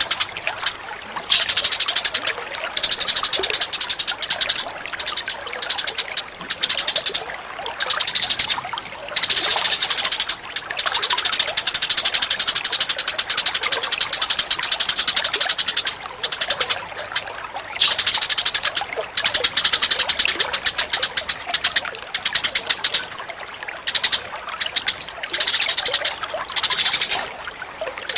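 Recorded songbird calls used as a training recording for cage birds: rapid, tightly packed high-pitched rattling chatter in long bouts with brief breaks, over a steady background of running water.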